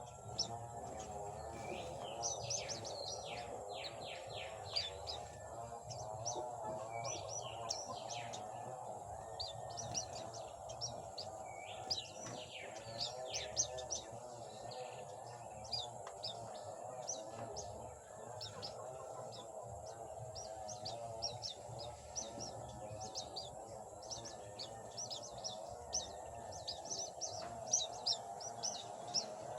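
Birds chirping: many short, quick, high-pitched calls in clusters, over a steady, wavering lower tone.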